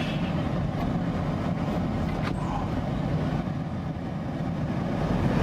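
Strong typhoon wind: a steady, dense low rumble of storm noise.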